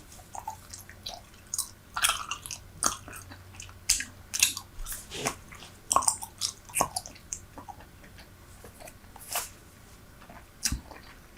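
Super Bubble bubble gum being chewed close to the microphone: wet, sticky clicks and smacks, closely spaced at first, then thinning out to a few sharper snaps.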